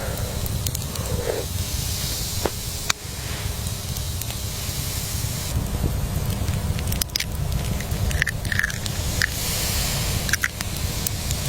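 Steady low rumble and hiss with scattered sharp crackles and clicks.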